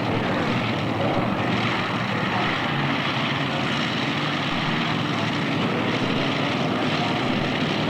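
Engines of a modified-class pulling tractor running flat out under load, a loud, steady drone.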